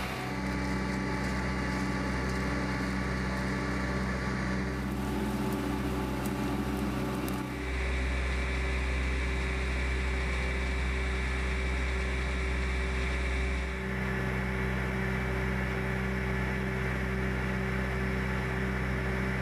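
Engine of a rail-road truck running steadily with a deep hum, its tone shifting a few times, about five, seven and a half and fourteen seconds in.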